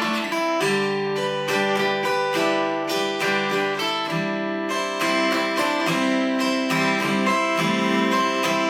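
Acoustic guitar strumming chords in a steady rhythm: the instrumental intro of a song.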